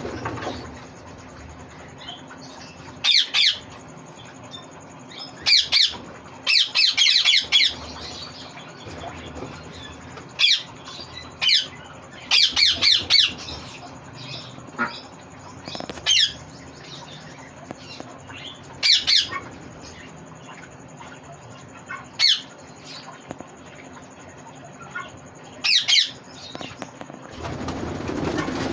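Green ring-necked parakeet squawking: a dozen or so short, harsh, high-pitched calls, some in quick runs of two or three, spaced irregularly over a faint steady hum.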